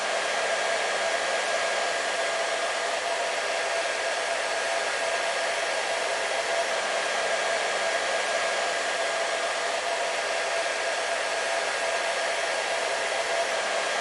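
Hair dryer running steadily: an even rushing hiss of blown air with a steady motor whine in it.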